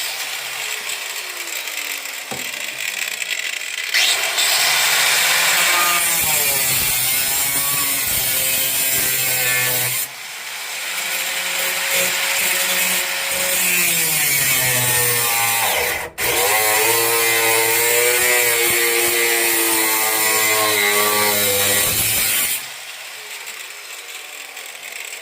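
Electric grinder cutting into car trunk floor sheet metal. It runs under load in long stretches and cuts out abruptly about ten and sixteen seconds in before picking up again, then winds down near the end. The cutting out sounds like a bad power cord on the grinder.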